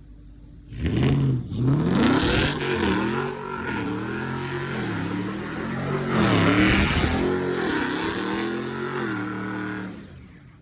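Car engine revving hard, its pitch climbing and dropping again over and over, over the noise of spinning tyres as the car slides. It starts suddenly about a second in and fades near the end.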